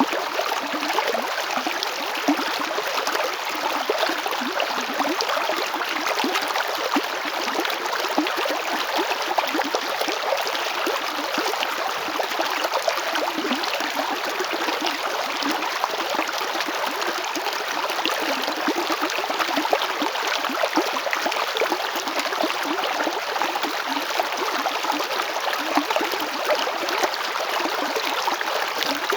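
Chalchaní river flowing: a steady, unbroken rush of water with fine gurgling and splashing throughout.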